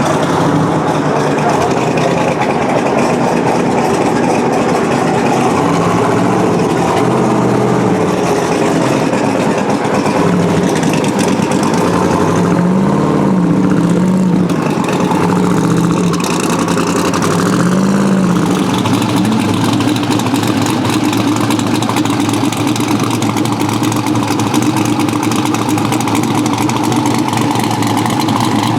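Car engine running steadily with road noise while driving. The engine note rises and falls a few times about halfway through.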